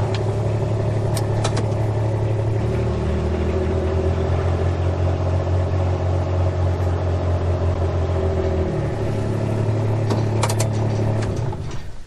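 An engine running steadily; its pitch drops about three seconds in, comes back up near nine seconds, and it dies away near the end.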